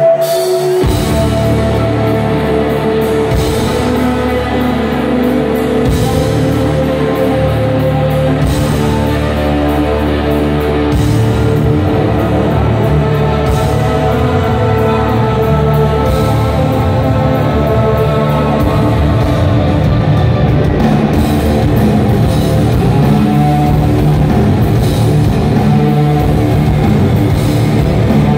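Live heavy rock band playing, with distorted electric guitars, bass and a drum kit; the full low end comes in about a second in.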